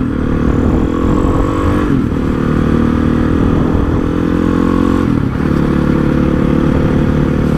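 Honda CRF450 supermoto's single-cylinder four-stroke engine running under way, revs climbing gently. The engine note breaks and drops briefly about two seconds in and again about five seconds in, then carries on steadily.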